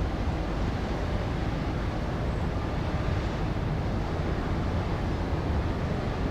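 Steady low rumble of a passing small tanker ship, mixed with wind and water noise.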